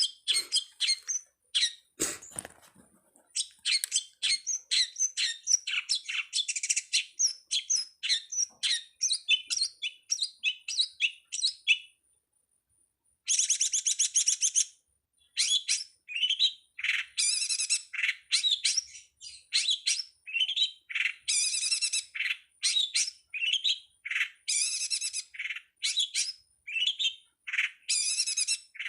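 Long-tailed shrike (pentet) singing: rapid runs of high chirps and squeaky, scratchy notes, with a pause of about a second a little before halfway. A single knock sounds about two seconds in.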